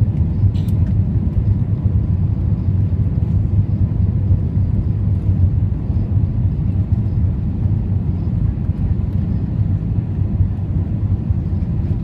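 Steady low rumble of an Airbus A320's engines and airflow heard inside the passenger cabin during the approach, with a faint steady hum above it.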